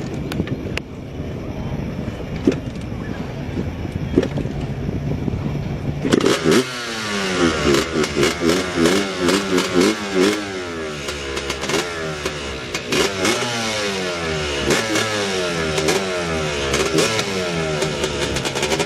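Motorcycle engine fitted to a boat catching about six seconds in, then revved up and down repeatedly and kept running with throttle blips. A steady low hum comes before it starts.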